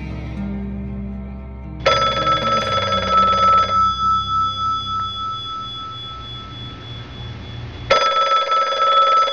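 Old-style desk telephone bell ringing twice: a ring of nearly two seconds starting about two seconds in, then a second ring near the end. Soft guitar music plays underneath and stops as the second ring begins.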